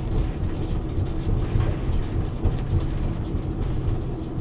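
Steady low rumble of a truck on the move, heard from inside the cab, with light irregular rattling over the top.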